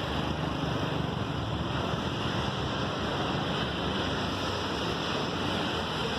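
Freight train rolling past, a steady, even rumble and rush of wheels on the rails, with no change in level.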